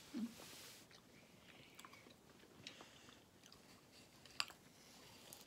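Faint crunching and chewing of crisp raw fruit slices, with light clicks of metal forks; one sharper click comes about four and a half seconds in.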